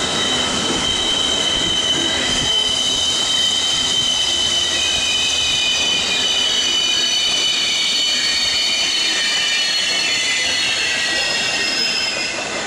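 Regional passenger train squealing as it rolls slowly into a station while braking, with several high, steady squeal tones over continuous rail rumble.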